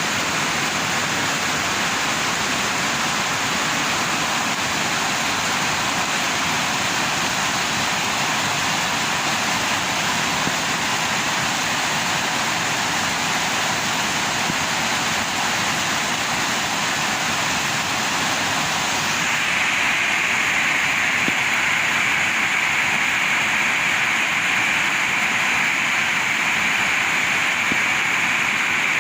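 Heavy rain falling in strong wind, a steady loud hiss that grows a little louder and brighter about two-thirds of the way through.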